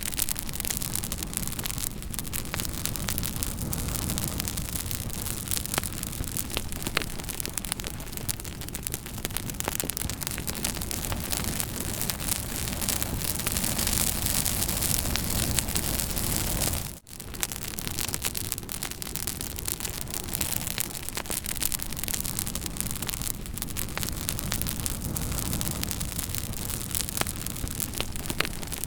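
Campfire crackling and hissing, with a dense run of small pops and snaps over a steady rush. A little past halfway the sound drops out for a moment and then resumes.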